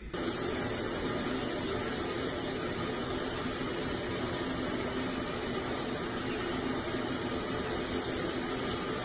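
Steady rushing background noise with a faint low hum, starting suddenly and holding level throughout.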